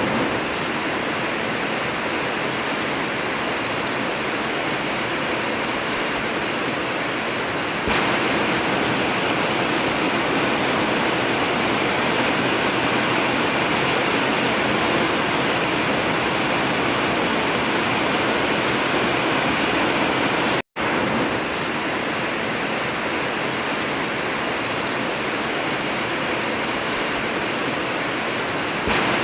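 Heavy rain on an old zinc sheet roof, a steady dense hiss. It gets louder and fuller about eight seconds in, and cuts out for a split second about two-thirds of the way through.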